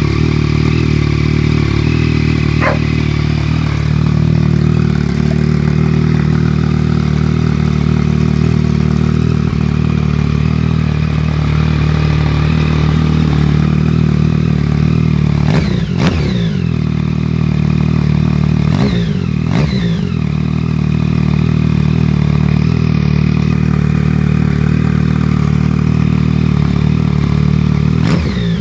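A Yamaha MT-09/FZ-09/XSR900's inline three-cylinder engine running through Black Widow aftermarket exhausts. It idles steadily and is blipped in quick revs that rise and fall back: once about halfway through, twice at about two-thirds, and once near the end.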